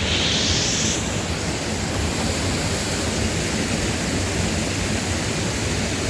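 Steady rushing of a waterfall, an even wash of water noise with a brighter hiss for about the first second.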